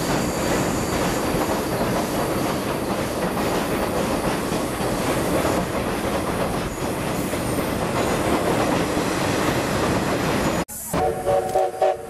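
Steam-hauled passenger train's coaches rolling across a girder viaduct, with a steady rumble of wheels on the rails. About ten and a half seconds in the sound cuts off abruptly, and a brief tone with several pitches follows.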